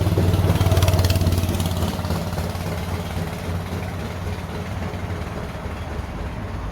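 Street traffic: a motor vehicle's engine hum is loudest in the first two seconds, then settles into a steady traffic hum.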